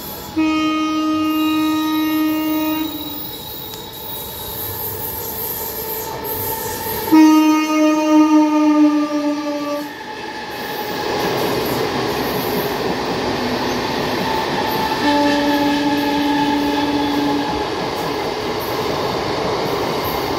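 Passenger train's locomotive horn sounding three times: about half a second in, again around seven seconds in (the loudest, its pitch dropping slightly), and a third time around fifteen seconds in. From about ten seconds on, the train's coaches run past at speed with steady, loud wheel-on-rail noise.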